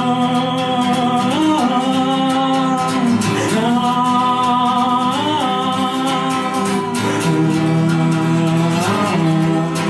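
A singer holds long sung notes that glide between pitches, without clear words, over a strummed acoustic guitar.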